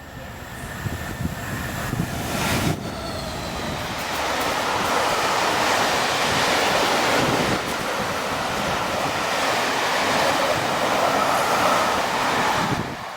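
A train passing through the station: a steady rushing of wheels and air that builds over the first few seconds, holds loud through the middle and falls away near the end.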